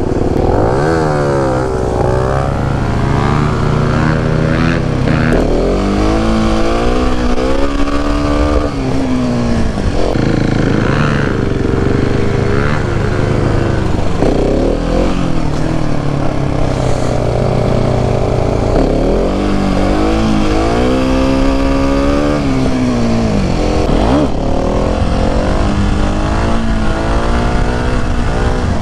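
Husqvarna 701's single-cylinder engine, heard from a camera on the bike, accelerating and easing off again and again, its pitch rising and dropping several times, with wind rushing over the microphone.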